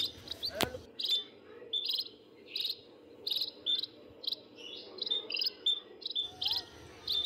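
Short high-pitched chirps repeating about twice a second, with a faint steady hum beneath and a single sharp click under a second in.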